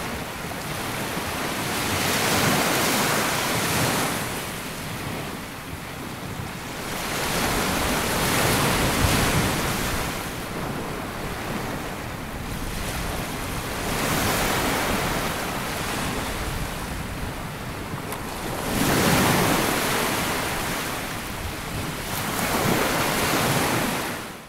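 Sea waves breaking and washing up a sandy beach, swelling in a surge every four to six seconds and ebbing between, until the sound cuts off at the very end.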